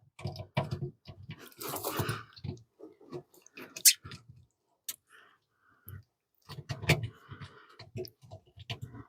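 Hands working a part into place on a truck: irregular small clicks, knocks and crackling handling noise, with one sharp click about four seconds in.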